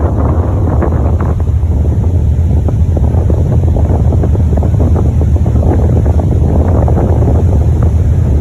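Wind buffeting the microphone on a ferry, with a steady low rumble and a sea-like hiss underneath.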